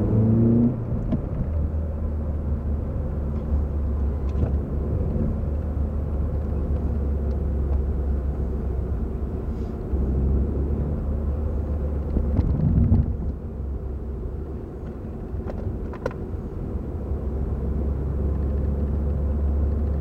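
Car engine running with steady low road rumble. The engine note swells briefly twice, just after the start and about twelve seconds in.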